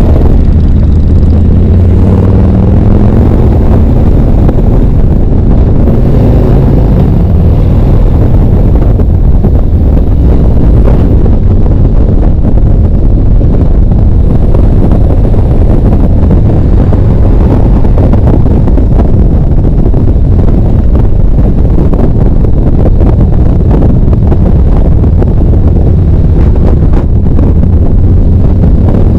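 Harley-Davidson V-twin motorcycle engine running under way, with heavy wind rumble on the microphone.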